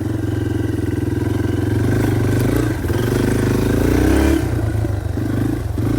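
Dirt bike engine running at low revs, its note rising and falling with the throttle and easing off briefly a couple of times.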